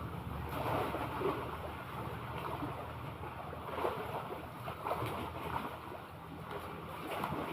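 Sea waves and wind, with wind buffeting the microphone in an uneven, steady rush.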